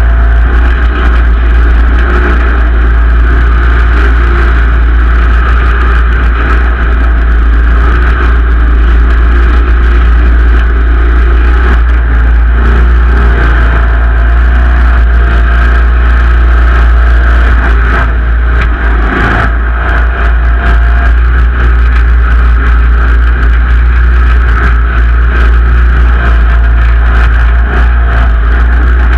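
Simplicity Legacy XL garden tractor's engine running steadily under load, loud and close, with no let-up.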